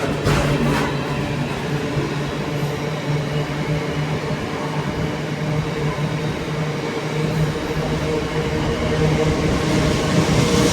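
Diesel train running with a steady low hum, its engine note held level; near the end a hiss grows stronger as the sound gets a little louder.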